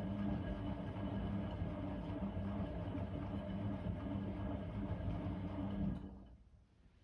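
Blomberg WA391 front-loading washing machine running steadily with a motor hum during a 90 °C wash, then stopping about six seconds in and dying away within half a second.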